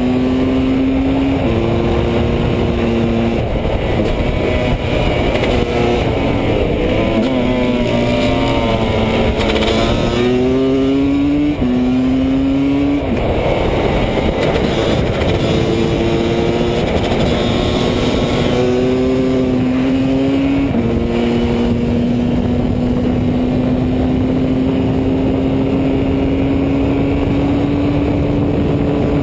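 Husqvarna WR300 two-stroke supermoto heard from on board at race pace. The engine note climbs and drops back in steps as it is shifted and throttled through the corners, then holds a long, slowly rising pitch near the end. Wind rushes steadily underneath.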